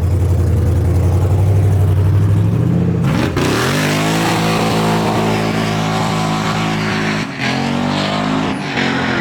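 Car engine idling, then revving up about three seconds in and holding at higher revs, dipping briefly twice near the end.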